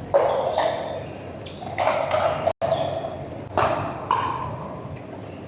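Pickleball paddles striking a plastic pickleball in a rally: sharp pops with a short ringing tail, roughly one every second and a half to two seconds.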